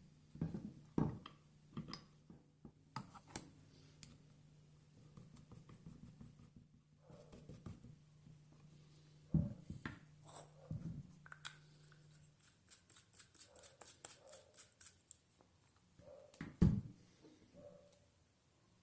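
Old hand drill being handled and worked: irregular metal clicks and knocks, with a run of quick, even ticking for a couple of seconds past the middle.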